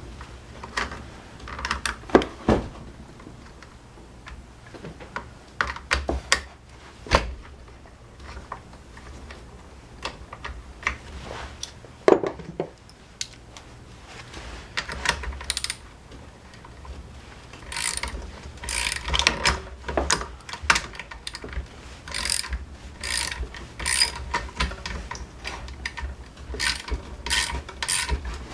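Hand tools and metal parts clicking and knocking while a Honda UMK-422 trimmer is put back together. Scattered knocks come first, then a denser run of quick ratcheting clicks in the second half.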